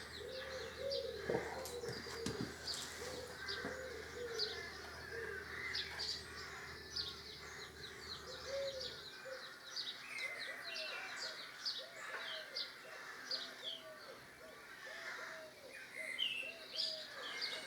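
Birds chirping and twittering continuously, with a lower, arched call repeated in runs.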